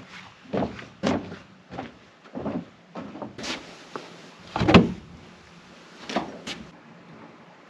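A series of irregular knocks and thuds, about a dozen, with one heavier thud about two-thirds of the way through.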